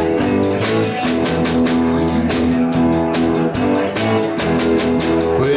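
Live rock and roll band playing an instrumental passage between verses: guitar and bass over a steady drum-kit beat.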